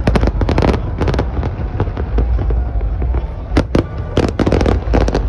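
Aerial fireworks bursting in rapid, irregular volleys: dense sharp bangs and crackles over a constant low rumble, with a thick cluster of reports in the last couple of seconds.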